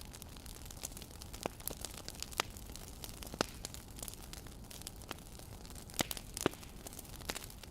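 Wood fire crackling: irregular sharp pops and snaps over a steady low hiss, with a few louder pops in the middle and near the end.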